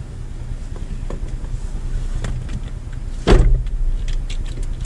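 Engine of a stopped vehicle idling with a steady low hum, with light clicks and one loud thump a little past three seconds in.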